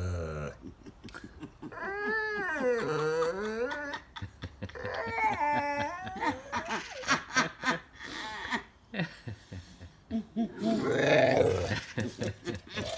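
Bulldog vocalising in play: long wavering groans and whines that slide up and down in pitch, then a run of short snorts and a rough growl near the end.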